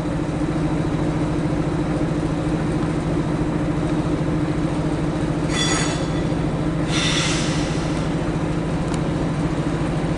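EP07 electric locomotive hauling a passenger train into the station, with a steady low hum of its running. Two short high squeals come about five and a half and seven seconds in.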